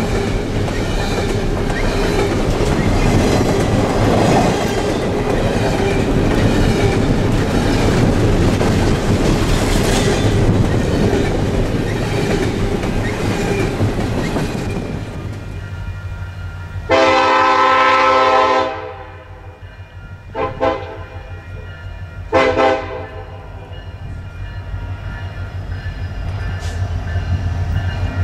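Double-stack container train of TTX well cars rolling past close by: a steady rumble and clatter of wheels on rail that fades out about fifteen seconds in. Then a Union Pacific diesel locomotive's air horn sounds as it approaches: one long chord blast, then two short ones, and another starting near the end.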